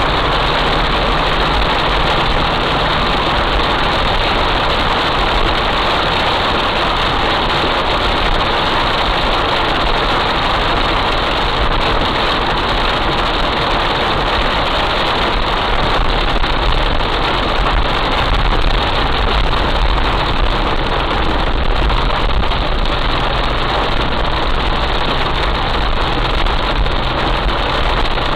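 Heavy rain falling steadily, with a vehicle engine idling underneath as a low steady hum.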